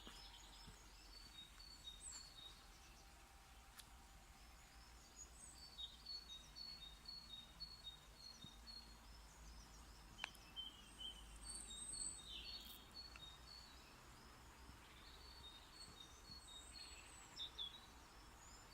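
Faint songbirds singing, with runs of short, high repeated notes throughout, over a low background hum.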